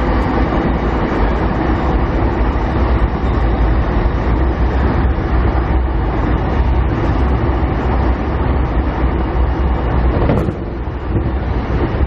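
Cabin noise of a JR Keiyo Line 209 series 500 electric train running between stations: a steady, loud low rumble of wheels on rail and running gear under the motor car, with a brief sharp knock about ten seconds in.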